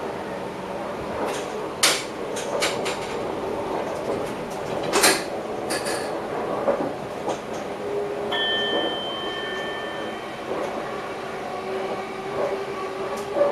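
Moving electric passenger train heard from inside the driver's cab: steady running noise with sharp clicks and knocks in the first half, and a steady electronic beep lasting under two seconds about eight seconds in.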